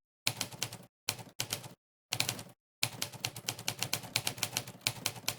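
Monkeytype's typewriter keypress sound effect, one sharp clack per key press, coming quickly as someone types. It plays in short runs broken by brief dead-silent gaps about one and two seconds in, then runs steadily for the last few seconds.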